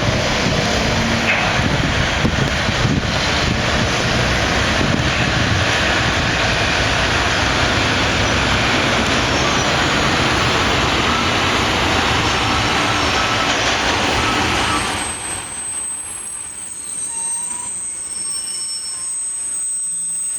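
Freight train passing close by: a loud, steady rumble of wheels on rails that falls away suddenly about fifteen seconds in, leaving quieter rail noise with thin, high wheel squeals.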